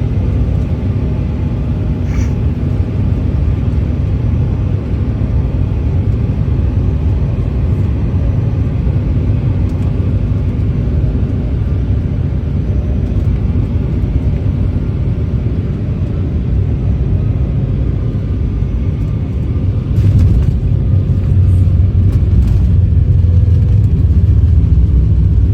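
Cabin noise of an Embraer E170 twin-turbofan airliner landing: a steady low rumble of engines and airflow. About twenty seconds in there is a brief rattle, and after it the rumble is louder.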